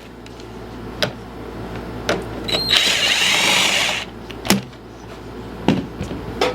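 Cordless drill/driver spinning briefly, for about a second near the middle, backing out a screw on a push mower's air cleaner cover. A few sharp clicks and knocks of tools and parts being handled come before and after it.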